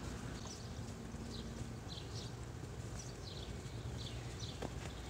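Small birds chirping faintly in the background, short high chirps repeating about every half second, over a low steady hum. A single light click comes near the end.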